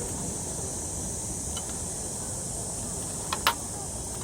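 Wood campfire burning, with two sharp pops about three and a half seconds in, over a constant high-pitched hiss.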